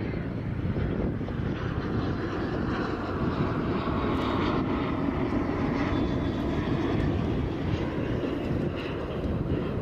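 Airliner noise: a steady, dense rush that swells a little through the middle and eases near the end.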